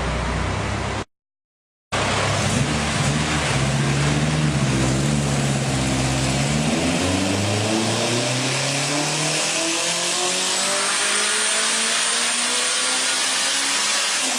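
Turbocharged Honda S2000 four-cylinder engine on a dyno, with a GT35 turbocharger: after a brief dead-silent cut about a second in, it runs at a roughly steady speed, then climbs steadily in pitch through the second half in a full-throttle dyno pull.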